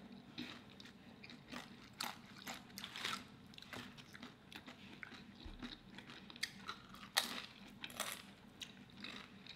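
Faint eating sounds: tortilla chips crunching and food being chewed, with scattered short crunches and clicks, the loudest a little after the seven-second mark.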